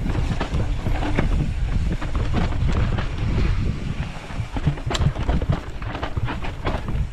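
Mountain bike riding a dirt trail: wind rushing over the microphone and a steady low rumble of tyres on dirt, with frequent sharp clicks and rattles from the bike jolting over rough ground.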